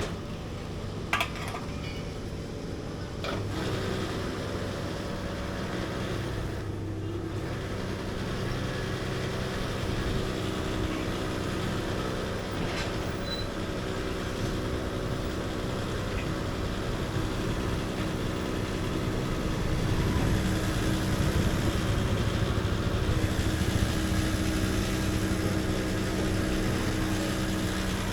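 An engine running steadily, with two sharp clicks in the first few seconds and the hum growing a little louder later on.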